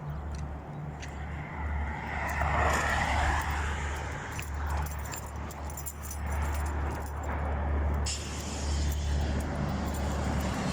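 Cars passing on a road, their tyre and engine noise swelling and fading, loudest about two to three seconds in, over a steady low rumble.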